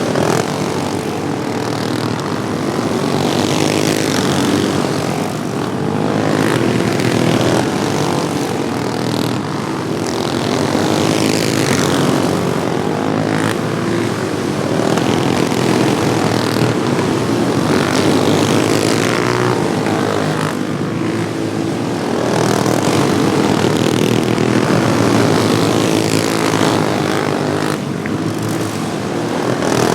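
Several racing lawnmower engines running hard together, a continuous buzzing whose pitch rises and falls over and over as the mowers pass and go through the turns.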